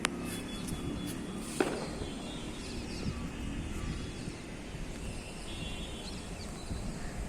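Outdoor background noise with faint, repeated high bird chirps, and two sharp clicks, one at the start and one about a second and a half in.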